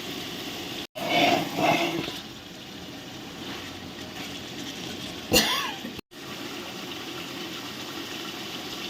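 Liquid pouring and splashing into a large pot of cooking chicken masala over a steady hiss, cut off abruptly twice, with a short sharp clatter about five seconds in.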